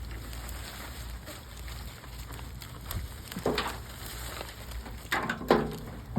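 Rain falling steadily. Short louder noises break through about three and a half seconds in and again twice near the end, the last one the loudest.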